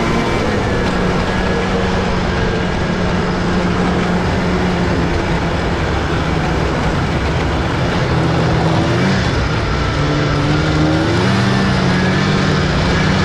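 Snowmobile engine running steadily, then its pitch drops and rises a few times in the second half as the throttle changes.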